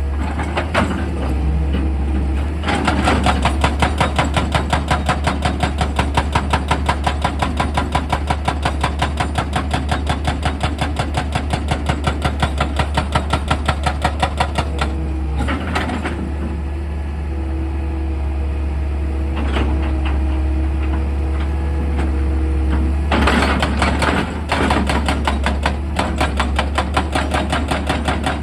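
Excavator engine running steadily under rapid percussive rock drilling, about four blows a second. The hammering stops for several seconds in the middle, leaving the engine hum, and starts again near the end.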